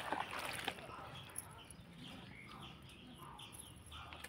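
Faint birds chirping in short scattered calls, with a couple of small clicks near the start.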